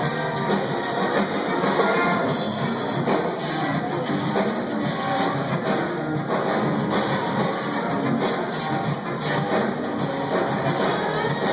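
Live band playing an instrumental stretch without vocals, with guitar and drums.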